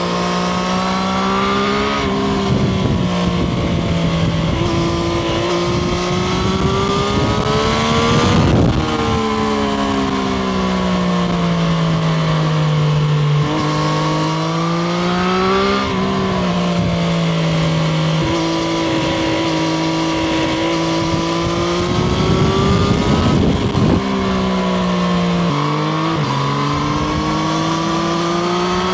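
Triumph Street Triple RS's 765 cc inline three-cylinder engine heard onboard, its note climbing slowly and then falling away several times, with sudden steps in pitch at the gear changes. Wind noise rushes underneath throughout.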